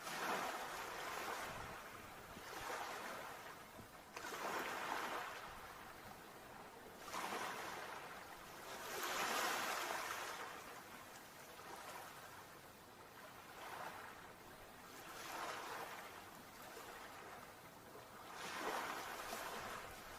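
Sea waves breaking and washing on the shore, the surf swelling and fading about every two to three seconds.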